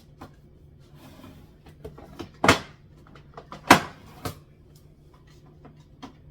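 Groceries being set down on a kitchen cupboard shelf: a few light clicks and two sharp knocks, about two and a half and nearly four seconds in, with a softer knock just after.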